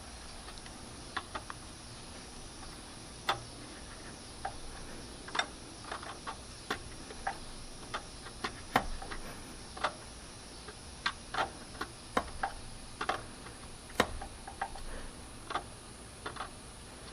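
Scattered light clicks of a hand tool, irregular at roughly one a second, as a new plastic PCV valve is worked slowly into its threaded port.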